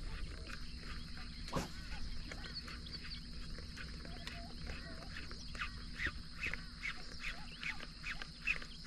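Birds calling repeatedly in short chirps over a steady high hiss, with one sharp click about a second and a half in.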